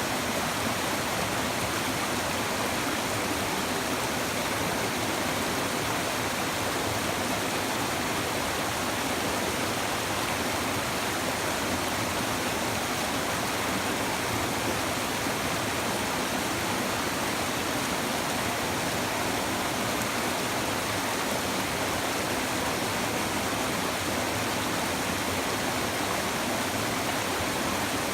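Shallow river babbling and murmuring over stones, an unbroken even rush of running water at a constant level.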